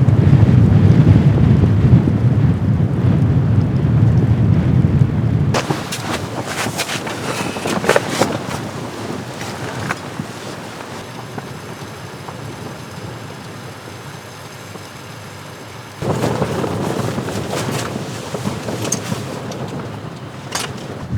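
Strong blizzard wind rumbling over the microphone. About five seconds in it cuts abruptly to quieter wind with scattered knocks and rattles, and the louder wind noise returns at about sixteen seconds.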